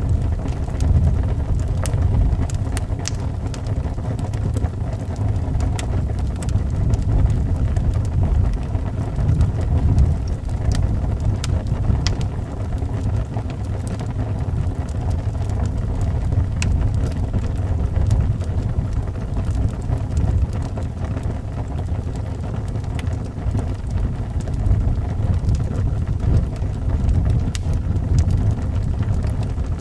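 Howling wind with a steady low rumble, over a wood fire crackling with scattered sharp pops.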